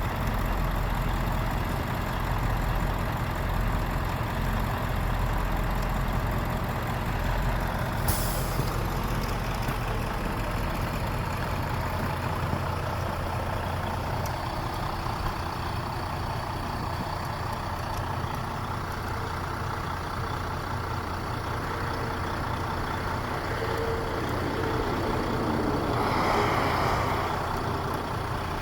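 Heavy truck engine idling steadily, with a short burst of hiss about eight seconds in and a louder rush of noise near the end.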